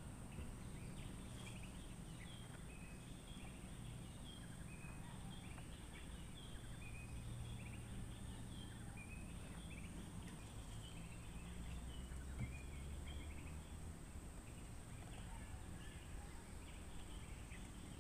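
Birds chirping: many short, quick calls one after another throughout, over a steady high-pitched whine.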